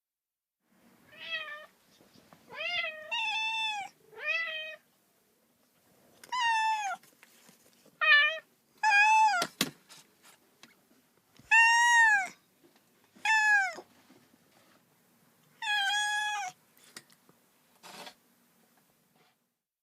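Domestic cat meowing again and again, about ten separate meows, each rising then falling in pitch, with short pauses between them. A sharp click comes about nine and a half seconds in.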